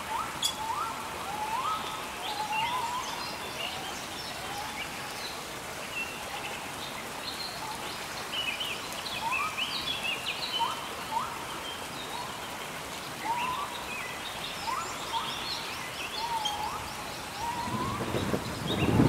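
Birds calling over a steady hiss of rain: short whistles that sweep upward, repeated every second or two, with higher chirps in between. Near the end a low rumble begins to swell.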